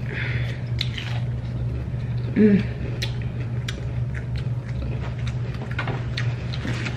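Close-miked biting into and chewing fried chicken: scattered small wet clicks and smacks of the mouth, with a short voiced 'mm' about two and a half seconds in, over a steady low hum.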